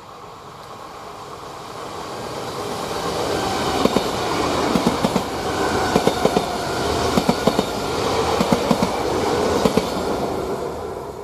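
A passenger train passing close by: its running noise builds up, then its wheels clack over a rail joint in regular pairs, bogie after bogie, and the sound fades away near the end.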